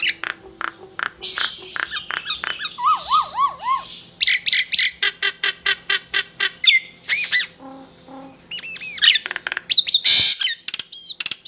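Songbird masteran (tutor) recording: a fast, varied medley of sharp chirps, rapid note trills, repeated down-slurred whistles and a few harsh squawky notes, with a brief pause a little past the middle.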